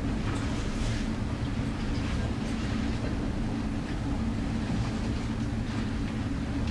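A ship rumbling steadily in a storm, recorded on board: a deep constant drone with a low hum, and brief hissing splashes of water now and then.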